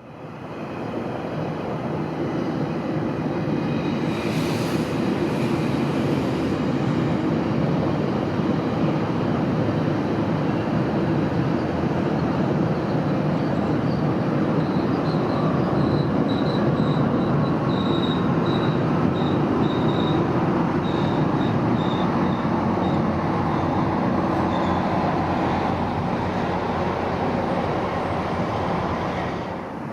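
GO Transit passenger train rolling past with a steady rumble of wheels on rail. A faint, broken high-pitched wheel squeal comes and goes from about fifteen to twenty-five seconds in.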